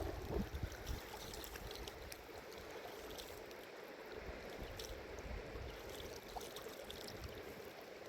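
Steady rush of flowing stream or river water, with a low rumble in the first second and a few faint ticks over it.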